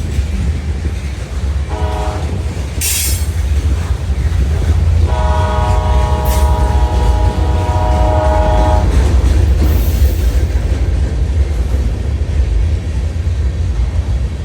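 Diesel train locomotive sounding its air horn as a chord of several tones: a short blast about two seconds in, then a long blast of about four seconds. A steady low rumble of the train runs underneath.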